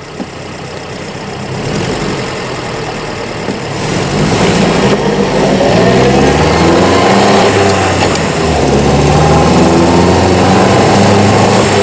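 1938 Austin 10 Cambridge's four-cylinder side-valve engine ticking over, then revving up as the car pulls away from a standstill, its pitch rising. There is a short break about two-thirds of the way through, then the pitch rises again.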